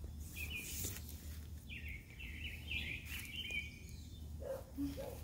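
A songbird singing: a couple of short high chirps, then about two seconds of quick repeated notes, over a steady low background rumble.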